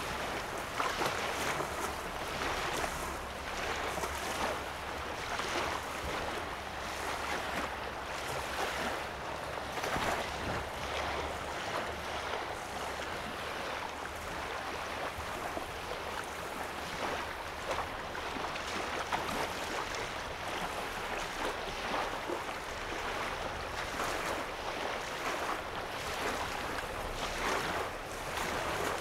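Small waves lapping and washing steadily onto the lake shore, in many small overlapping splashes, over a faint steady low hum.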